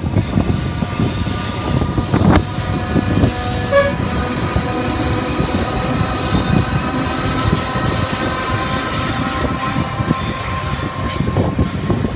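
Freight train rolling past, its wheels squealing on the rail in one steady high-pitched note over the rumble and clatter of the wagons. The squeal fades out near the end, and there is a single sharp knock a couple of seconds in.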